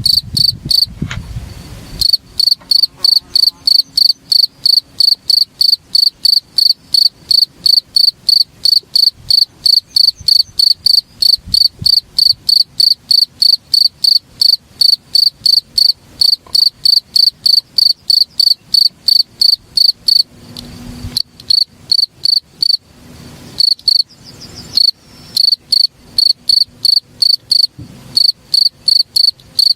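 An orthopteran insect (cricket or walang kecek katydid) calling in loud, evenly spaced high chirps, about three a second, with short breaks about two-thirds of the way through.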